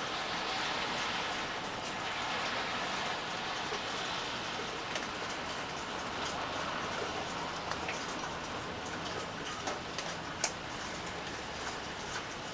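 Steady rainfall, an even hiss with scattered sharp drips hitting a surface, a few louder drops near the end.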